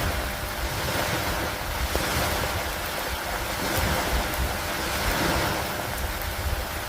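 Stormy lake ambience: a dense hiss of rain and wind over water that swells and eases every few seconds, over a low rumble.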